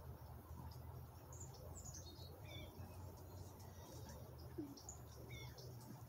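Faint, scattered bird chirps: short high notes every second or so, some falling slightly in pitch.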